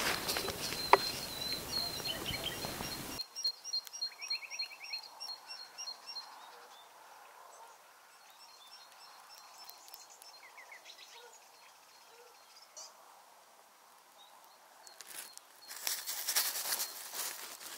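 Small woodland birds chirping: a rapid run of high, evenly repeated notes over the first several seconds, with a couple of short trills, then fainter calls. Rustling noise at the start and again near the end.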